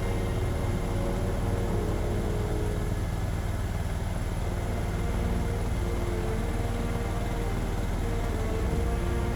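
Helicopter in flight: a steady, deep engine and rotor drone with a fine even flutter.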